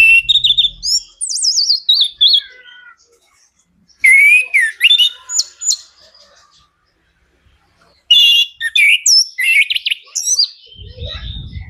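Chestnut-capped thrush singing energetically in three bursts of fast, varied whistled phrases, with quick rising and falling notes and short pauses between the bursts. A low rumble comes in near the end.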